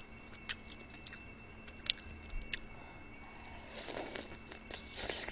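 Eating soupy spicy chicken feet: a few faint wet mouth clicks, then louder chewing and smacking from about three and a half seconds in.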